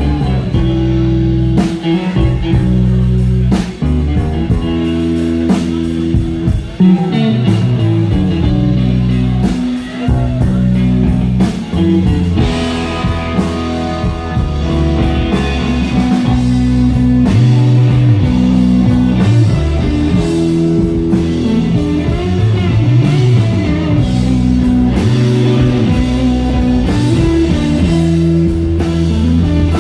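Blues-rock band playing live in an instrumental passage with no singing. Guitar leads over a drum kit and moving low bass notes, and the guitar part grows busier about twelve seconds in.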